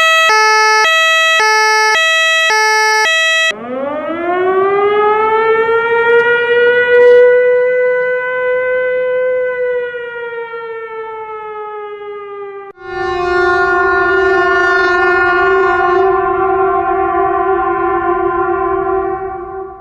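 A sequence of emergency sirens: a two-tone hi-lo siren switching pitch about twice a second, then, about three seconds in, a siren winding up in a long rising wail that levels off and slowly sinks. About thirteen seconds in it switches to a steady, horn-like siren tone that is held for several seconds and cuts off near the end.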